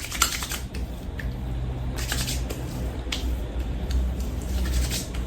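Hands patting liquid toner onto the face: irregular soft wet pats and taps, over a low steady hum.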